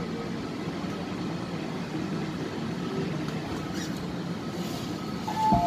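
Inside an MTR West Rail Line C-Train car pulling into a station platform: steady running rumble from the train, then near the end the door chime starts with two steady beep tones.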